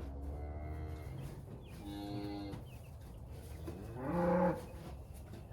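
Cattle mooing: three separate calls about two seconds apart, the last one the loudest.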